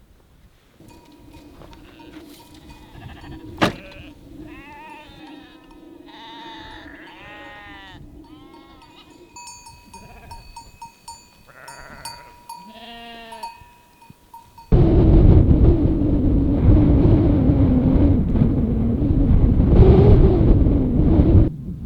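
Several sheep or goats bleating, one short rising-and-falling call after another. About fifteen seconds in, loud wind buffets the microphone with a wavering howl. It cuts off abruptly just before the end.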